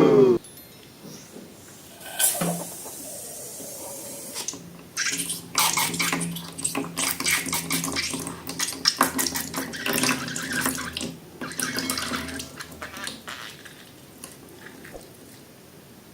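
Wet, watery sounds of liquid being handled for slime-making: a soft hiss, then several seconds of crackly, squelchy clicking that fades near the end.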